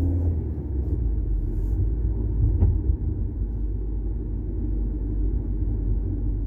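Volkswagen Golf 6 TSI running, a steady low rumble.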